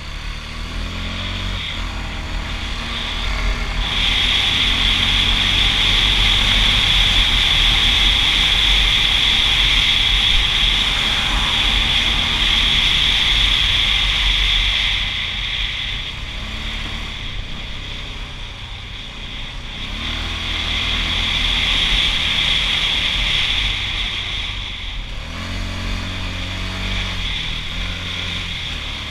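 Honda TRX680 ATV's single-cylinder engine running under way, with its pitch rising several times as it accelerates. A loud, steady high hiss lies over it for long stretches.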